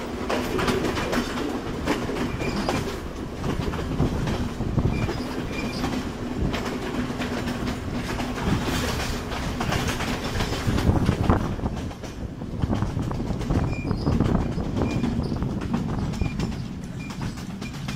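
Passenger train running at speed, its wheels clattering over the rail joints in a steady stream of clicks, heard through an open carriage window.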